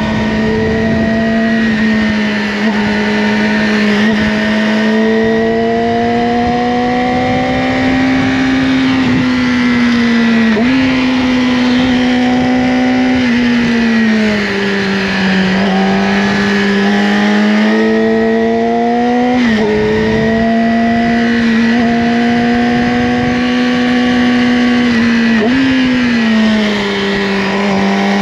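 Yamaha R6's inline-four engine through an Akrapovic slip-on exhaust, heard from the rider's seat at moderate revs. The pitch rises and falls gently, with three sudden steps up in pitch: about a third of the way in, about two-thirds in and near the end.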